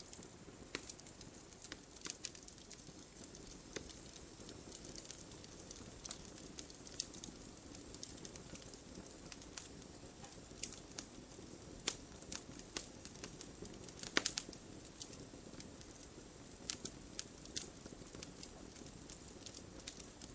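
Wood fire burning, with a steady low rush of flames and irregular sharp crackles and pops, a quick cluster of loud pops about fourteen seconds in.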